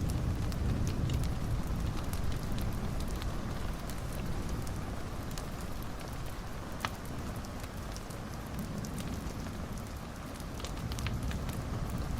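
Wood fire burning in a fireplace: a steady low rushing with scattered sharp crackles and pops, one louder pop about seven seconds in.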